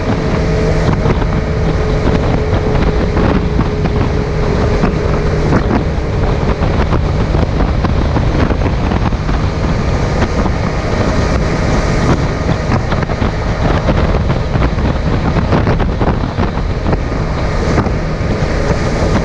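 Suzuki GSX750F's inline four-cylinder engine running steadily at road speed, under heavy wind noise buffeting the chest-mounted camera's microphone.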